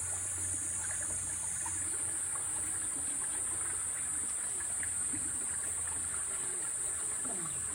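Steady flow of running water with a high hiss, with faint short chirps and clicks underneath.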